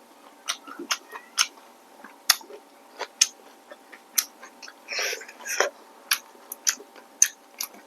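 Close-up eating of rice noodles with shrimp: irregular sharp, wet mouth clicks and smacks of chewing, with a few softer slurping chews past the middle.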